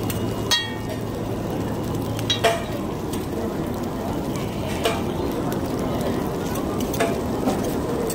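Aloo tikki potato patties shallow-frying in oil on a flat iron griddle (tawa): a steady sizzle, broken by a few sharp metallic clinks, the first of them, about half a second in, ringing briefly.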